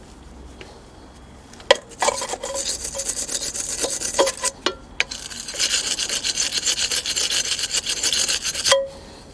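The firing end of a lawn mower spark plug being scraped clean with quick back-and-forth strokes, in two spells about 2 s in and again from 5 s, stopping just before the end.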